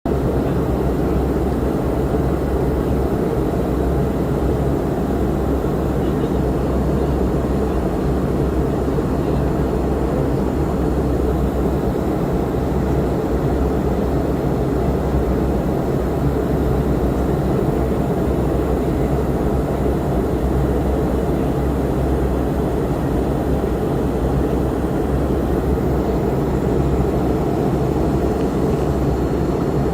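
Cabin noise inside an Airbus A330 airliner in flight: a steady, unchanging low rush of jet engines and airflow.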